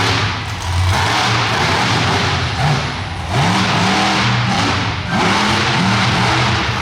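Monster truck engine running loud and being revved, its pitch dropping and climbing again several times as the throttle is lifted and reapplied.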